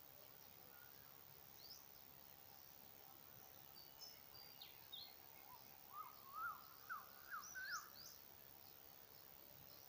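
Faint birdsong over a quiet rural background hiss: a quick run of five or six short whistled notes about six to eight seconds in, with a few scattered higher chirps.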